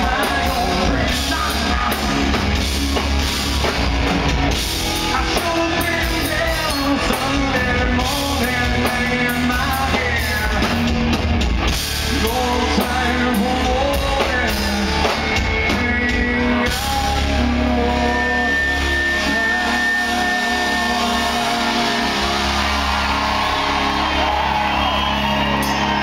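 Live rock band with drums and a male lead singer, playing loud and continuously.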